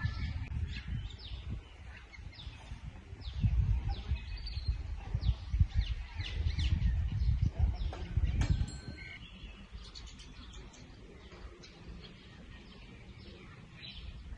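Small birds chirping: many short, quick high chirps throughout, over a low rumble that swells in the middle and dies down after about 9 seconds.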